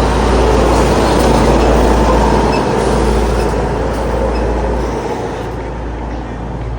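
Road line-painting truck running close by: a loud, steady engine hum and rush that eases off about five seconds in.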